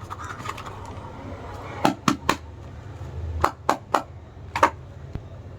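Packets being handled: a run of sharp clicks and taps, three close together about two seconds in and four more between three and a half and five seconds in, over a low steady hum.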